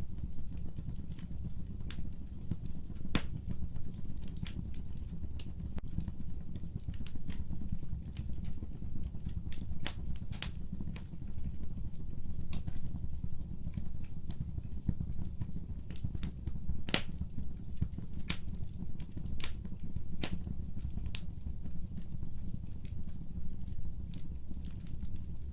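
Fireplace fire crackling: a steady low rumble of flames with irregular sharp pops and snaps scattered throughout.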